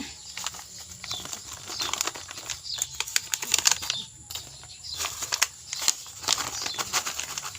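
Chunks of horticultural charcoal being poured into a plant pot: a dense, irregular clattering of small pieces tumbling against each other and the pot.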